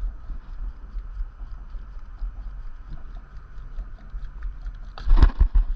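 A largemouth bass blowing up on a topwater lure: a sudden loud splash about five seconds in, over a steady low rumble of wind on the microphone.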